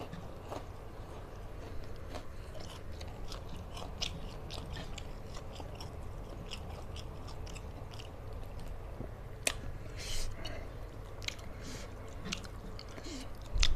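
A person chewing a hand-eaten mouthful of rice and fried fish, with irregular wet mouth clicks and smacks and one sharper click about halfway through.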